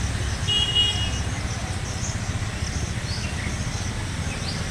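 Outdoor ambience: a steady low rumble under short, high chirps that repeat throughout, with a brief high steady tone about half a second in.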